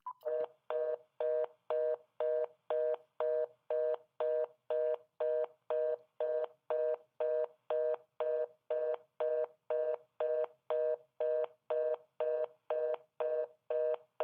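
Telephone fast busy (reorder) tone over the line: short two-tone beeps repeating about twice a second. It is the sign that the call has been cut off and the line is dead.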